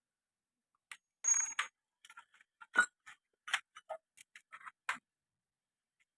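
Metal clicks and knocks of hand tools and engine parts being handled during motorcycle engine disassembly: a scrape with a brief high ring about a second in, then a string of separate taps and clinks.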